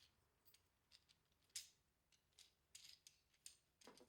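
Faint, scattered light clicks and clinks of the dent puller kit's small tool parts being handled and fitted together.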